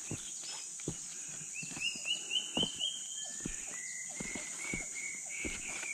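A bird singing in runs of short repeated notes, about six higher notes in quick succession and then a longer, slightly lower run, over a steady high-pitched insect drone of the rainforest. Footsteps thud irregularly underneath.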